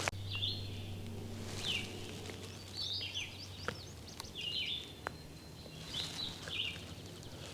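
Small songbirds chirping: short high calls repeating at irregular intervals, with a few faint clicks.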